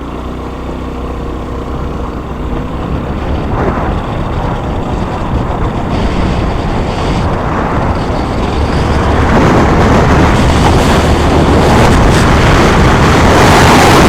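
Vehicle noise with rushing wind, growing steadily louder over the whole stretch until very loud, as if the vehicle is picking up speed.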